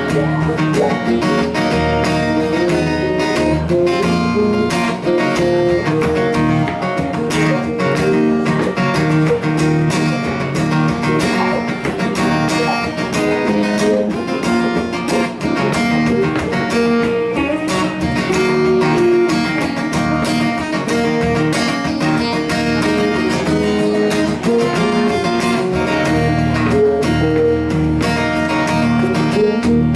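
Live band music led by guitars playing an instrumental passage with strummed and plucked notes and no vocals.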